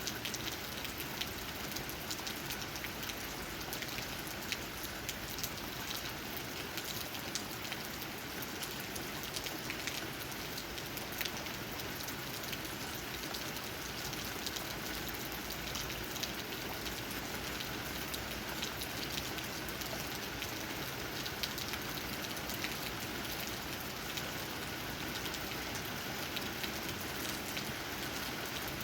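Steady rain falling, with many separate raindrops tapping on leaves over the even hiss of the downpour.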